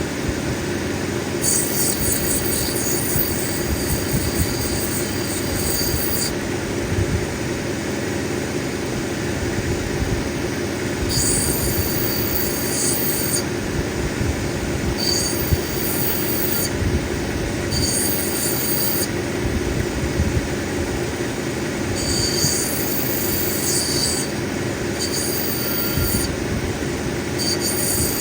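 Cabbing machine's grinding wheel running steadily, with an opal pressed against it in repeated spells of high-pitched grinding squeal, each lasting one to four seconds.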